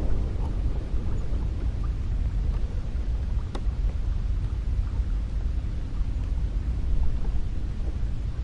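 Cold wind blowing steadily: a deep, even rumble with no gusts standing out, and one faint tick about three and a half seconds in.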